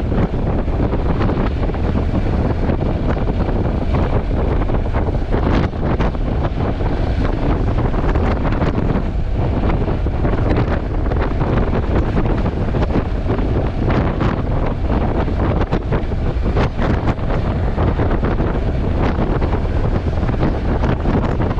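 Wind buffeting a GoPro's built-in microphone on a moving motorcycle: a steady, loud rumble that covers nearly everything else.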